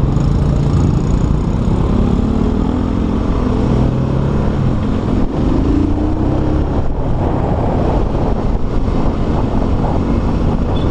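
Motorstar Cafe400's 400cc motorcycle engine running under way, its pitch rising as it accelerates between about two and six seconds in, over a steady low rumble of wind and road noise.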